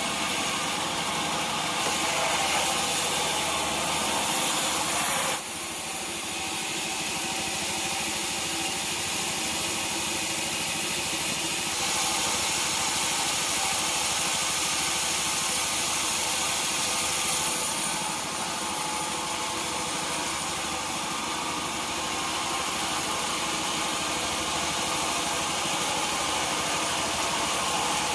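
Sawmill machinery running steadily: an engine-driven hum under a strong hiss. It grows louder about two seconds in, drops suddenly about five seconds in, and swells again about twelve seconds in before easing back.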